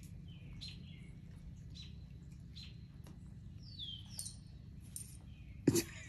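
Small birds chirping in short high calls, one sliding downward, about once a second over a low steady hum. A single sharp knock sounds near the end.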